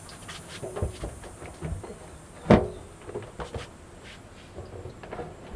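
Scattered clicks and knocks of hand work on car parts, with one loud knock about two and a half seconds in.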